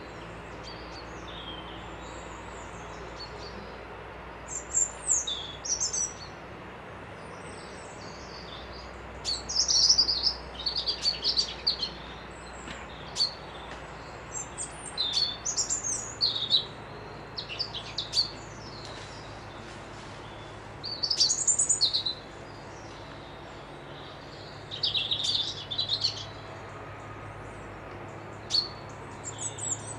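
Songbirds singing outdoors in repeated bursts of quick, high chirping and trilling phrases, one every few seconds, over a steady low background hum.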